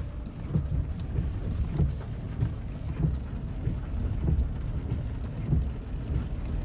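Car driving, an uneven low rumble of road and engine noise heard from inside the cabin.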